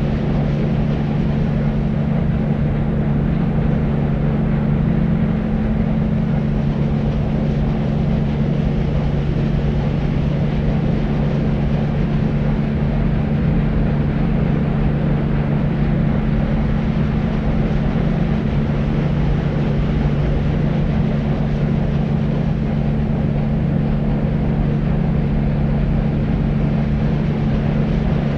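Steady deep white noise: an even, low-pitched rushing with a steady low hum in it, unchanging throughout.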